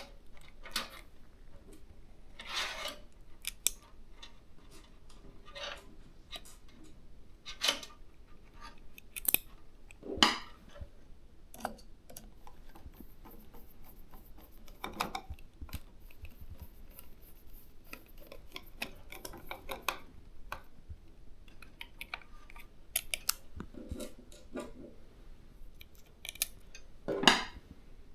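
Hands handling and fitting parts of an all-in-one liquid cooler in a PC case: irregular clicks, taps and short scrapes of plastic and metal. The sharpest scrapes come about ten seconds in and near the end.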